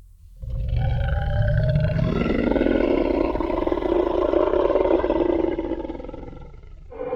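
Tyrannosaurus rex roar sound effect: a single long, deep, growling roar that swells in about half a second in and holds for roughly five seconds before fading, with the next roar just beginning at the very end.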